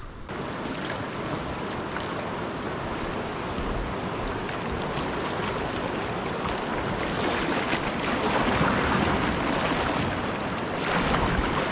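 Rushing water of a creek waterfall, a steady roar of white noise that grows louder as the kayak comes closer.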